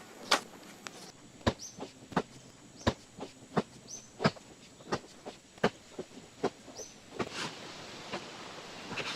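Repeated sharp knocks of a hand tool striking, irregular, about one to two a second. Three short, high rising chirps come between the strikes.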